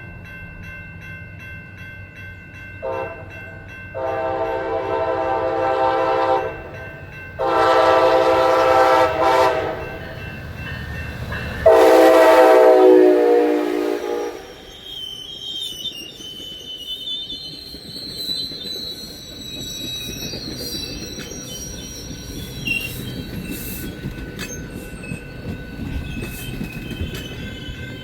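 Train air horn sounding a short toot and then three long blasts, each louder than the last. After the last blast, high-pitched wheel squeal and rail clatter follow as the train rolls through.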